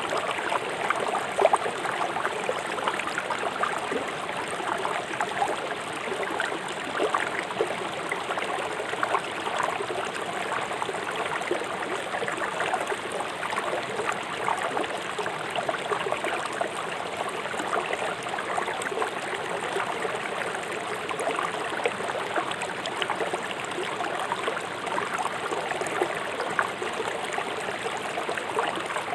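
Fast-flowing river water rushing and splashing over rocks, a steady dense babble with many small splashes and gurgles.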